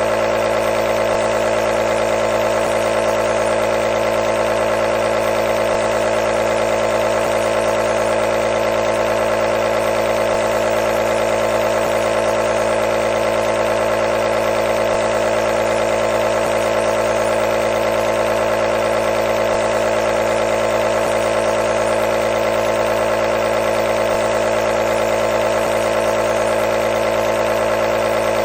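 Compressor nebulizer running continuously: a steady motor hum with a strong mid-pitched tone that does not change.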